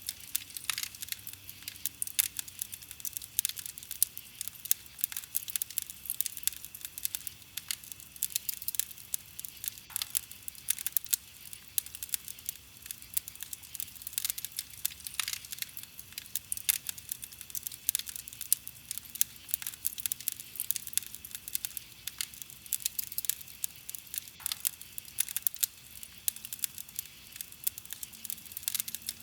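Wood fire crackling steadily, with a dense, irregular run of small pops and snaps and a few louder ones.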